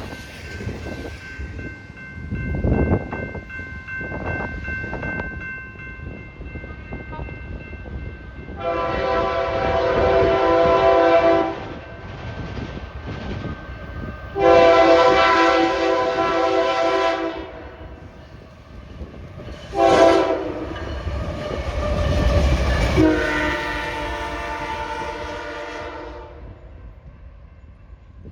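Locomotive air horn sounding the grade-crossing signal: two long blasts, one short and one long, over the rumble of the passing train.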